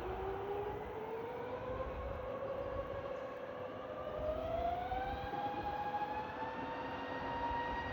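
Aircraft turbine engines spooling up: a whine that climbs in pitch in two stages and then holds steady, over a steady low rumble.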